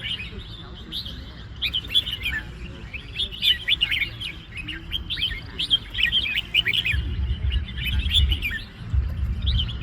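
Red-whiskered bulbuls singing: runs of quick, short chirping notes in clusters, with a low rumble underneath that grows stronger about seven seconds in.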